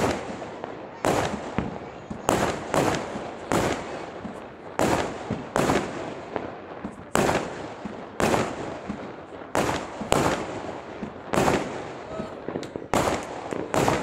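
Aerial fireworks bursting in quick succession: about fifteen loud bangs, roughly one a second, each trailing off into a rumble that runs on into the next.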